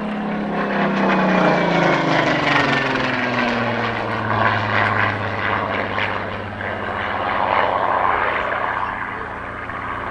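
Supermarine Spitfire's piston engine flying past, its pitch falling as it goes by over the first few seconds, then a steady drone as it pulls away.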